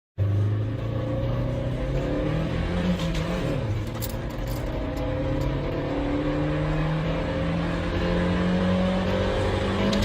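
An Opel Astra J petrol engine accelerating hard at full throttle. Its pitch climbs steadily, drops once about three seconds in at a gear change, then climbs again.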